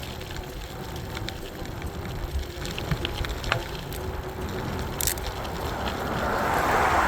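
Riding noise from an e-bike on the move: a steady low rumble with a faint steady hum and scattered small clicks. A rushing sound swells near the end.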